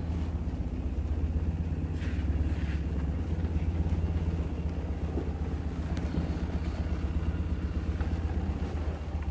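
BMW R65 GS motorcycle's air-cooled flat-twin (boxer) engine running at low revs as the bike rolls in and stops, then idling steadily. A few faint clicks from the bike are heard over the idle.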